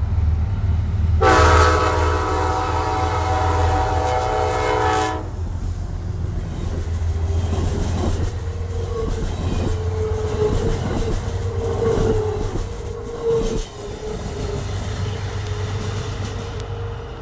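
GE P32AC-DM diesel locomotive passing with its engine rumbling, sounding a long multi-tone horn blast of about four seconds near the start. Afterwards the train rolls on with wheel clatter and an on-and-off squeal from the wheels.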